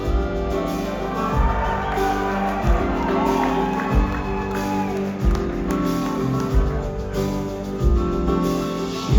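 Live rock band playing an instrumental passage, with a lead melody line that glides in pitch over sustained chords and low drum hits about every second and a bit.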